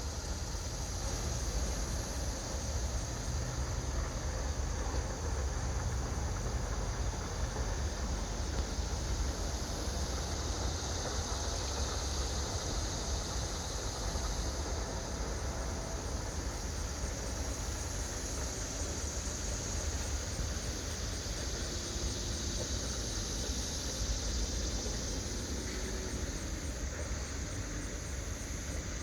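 Steady outdoor background noise: a low rumble under a steady high hiss, with no distinct event standing out.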